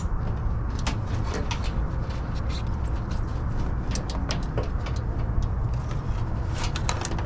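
Scattered light clicks and taps of hands working on an HVAC unit's wiring, over a steady low rumble.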